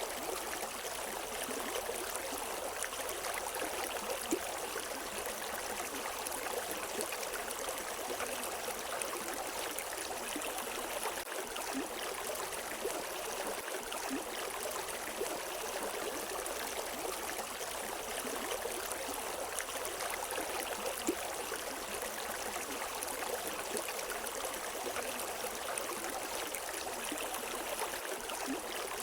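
River water flowing and splashing steadily, a constant rushing hiss with small gurgles and splashes throughout.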